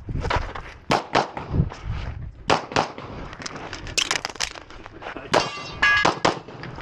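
A 2011-pattern pistol firing a course of fire: a dozen or more sharp shots at an uneven pace, in pairs and short strings with gaps between, some followed by a brief metallic ringing clang.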